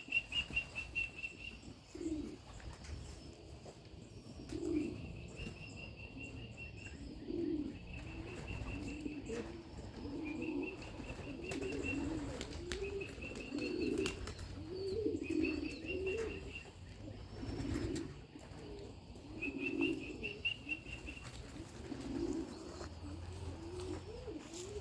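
Homing pigeons cooing over and over in the loft, with several short, high, rapidly trilled calls from another bird repeated every few seconds.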